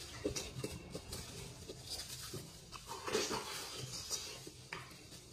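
Faint mouth sounds of a person eating soft beef bone marrow: scattered small smacks and clicks of chewing and sucking, a little louder about three seconds in.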